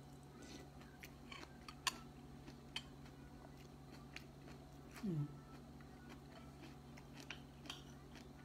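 A person chewing a mouthful of cooked vegetable soup greens, with scattered soft clicks and smacks of the mouth. A short low falling vocal sound comes about five seconds in, over a steady low hum.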